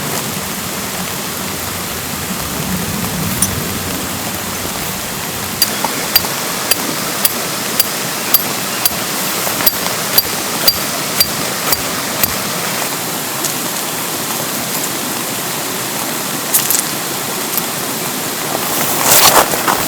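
Steady spring rain falling, mixed with the rush of a valley stream. Partway through, a run of sharp, lightly ringing ticks comes about two a second for several seconds, and there is a short louder rush near the end.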